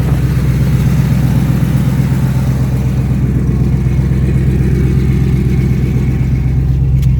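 Carbureted 350 small-block Chevy V8 with a mild RV cam, running steadily at idle through headers and a Flowmaster 40 series muffler run dual in, single out. The engine is still warming up after a cold start.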